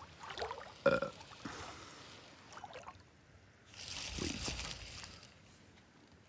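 Creek water splashing and sloshing, loudest in a burst about four seconds in, with a short squeak about a second in.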